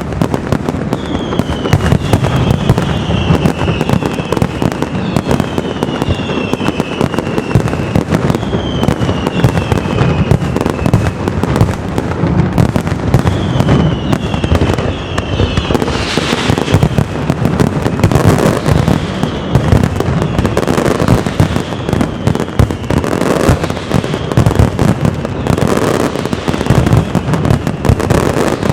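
Castillo fireworks display: a dense, unbroken crackle and banging of bursting shells. Through the first half, groups of whistling fireworks sound, each whistle falling in pitch. Heavier bursts stand out in the second half.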